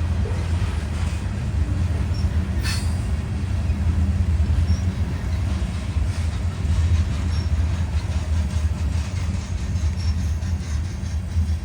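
CSX freight train rolling past with a steady low rumble from its wheels on the rails, faint wheel squeals and a single sharp clank a few seconds in.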